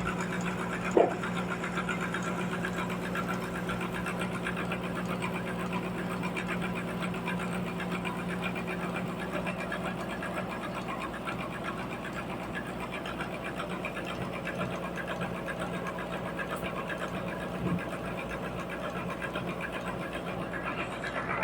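Sawmill machinery running steadily with a continuous engine-like hum and a fast, dense rattle. A short squeak sounds about a second in, and a brief knock comes near the end.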